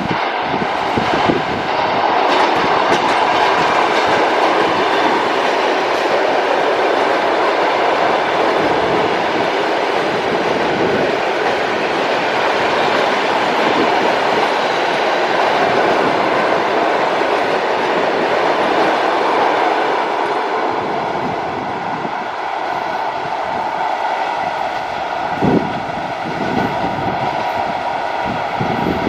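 Electric train passing close by, a steady loud run of wheel-on-rail noise that eases a little past the middle, with a couple of short knocks near the end.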